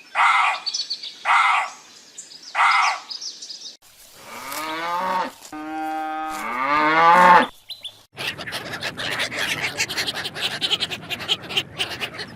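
A run of different animal calls. First come three short calls about a second and a half apart. Then a long call dips in pitch and rises again, and a rough, clicking chatter follows.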